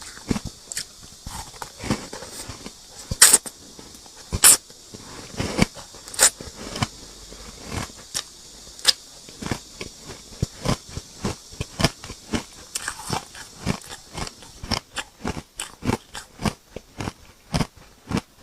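Hard ice chunks coated in matcha powder being bitten and chewed close to the microphone. There are loud crunching bites about three and four and a half seconds in, then steady crunchy chewing at about two or three crunches a second.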